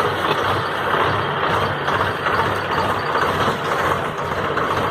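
A heavy vehicle or machine running steadily, heard as a dense, even mechanical noise.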